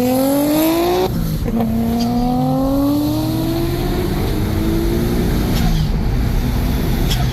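Turbocharged 3.0-litre V6 car accelerating hard at full throttle through the gears, its engine note climbing, dropping at a gear change about a second in, climbing again with another change around four to five seconds, then falling away as the driver lifts off near the end. Heavy wind and road noise underneath.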